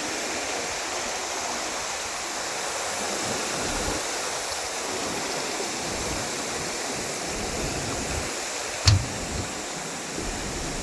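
Swollen, flooded stream rushing steadily, an even hiss of fast water. A single sharp knock about nine seconds in.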